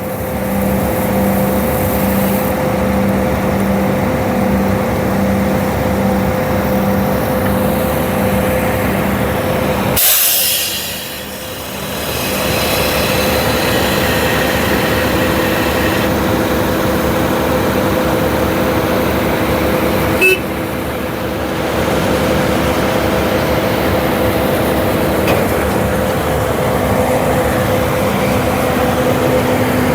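Heavy diesel construction machinery running steadily at a concrete pour: ready-mix truck and concrete pump engines. About ten seconds in there is a short loud hiss, then the noise briefly drops, and a sharp click comes near the middle.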